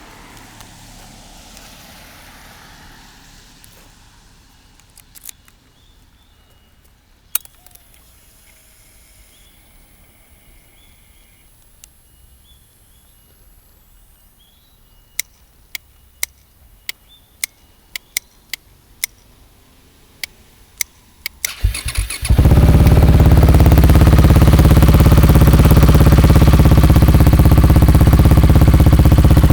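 A few sharp clicks, then a KTM 690 Duke R's single-cylinder engine is cranked and catches near the end, settling into a loud, steady idle through a Fresco slip-on exhaust with its baffle (dB killer) removed.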